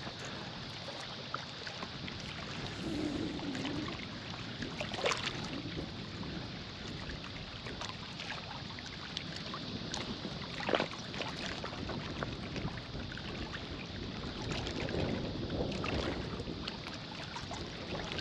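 Steady rush of river current over the rocks of a wing dam, with wind, and a couple of faint clicks.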